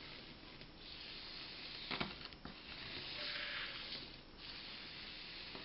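Faint steady hiss with a single sharp click about two seconds in and a short louder stretch of hissing rustle a little after three seconds, typical of handling work at a table.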